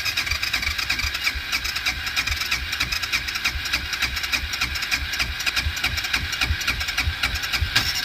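ATV's electric starter cranking the engine through a newly wired starter switch, with a steady whine and a regular low chugging; the engine does not catch, which the owner takes to mean it needs gas.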